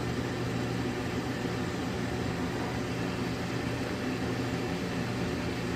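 Samsung clothes dryer's drive motor and blower fan running with a steady hum, the cabinet open and the drum belt off, on a test run to check whether the repaired heater now heats.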